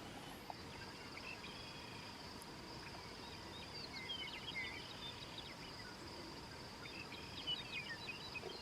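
Faint birds chirping in short scattered calls over a steady, high-pitched insect trill.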